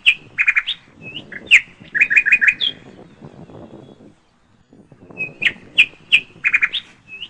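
A bird chirping in quick runs of sharp notes, in two phrases separated by a quieter gap of about two seconds in the middle.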